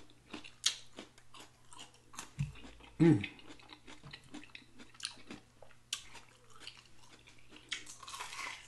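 Close-miked chewing of fried chicken wings: a run of wet mouth clicks, smacking and small crunches, with one louder low mouth sound about three seconds in and a fresh bite into a ranch-dipped wing near the end.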